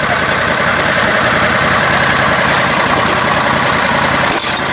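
Lifted riding lawn mower's engine running steadily, dipping briefly near the end.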